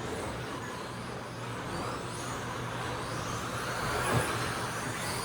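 Brushless electric motors of several 1/10-scale RC stadium trucks whining, rising and falling in pitch as they speed up and slow down around the track, over a steady low hum. There is a short knock about four seconds in.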